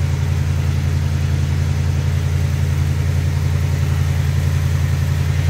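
Oldsmobile Rocket 455 V8 idling steadily during its cold-start warm-up, the choke still set, as a low, even drone with no change in speed.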